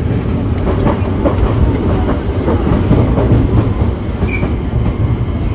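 Tokyo Metro 7000 series subway car running through the tunnel, heard from inside the car: a steady, loud rumble of wheels on rail with rapid small clicks.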